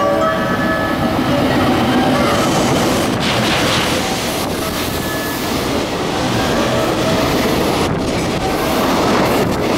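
Container freight train hauled by an EF200 electric locomotive passing through a station without stopping: the locomotive goes by and a long line of container wagons rolls past close by, a steady loud rumble with the wheels clattering over the rails.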